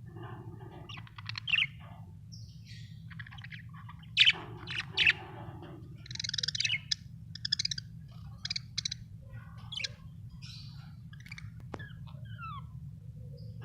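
Budgerigars chirping and warbling in short, irregular bursts, the loudest calls about four and five seconds in, over a steady low hum.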